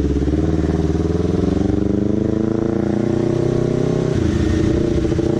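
Honda CBR250RR motorcycle engine and exhaust pulling under acceleration while riding, the pitch rising gradually. About four seconds in it dips briefly, like a gear change, then rises again.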